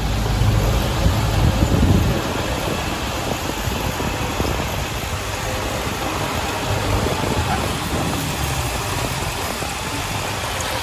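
Diesel engine of heavy earthmoving machinery running, deeper and louder for about the first two seconds, then easing to a steadier, lighter running sound.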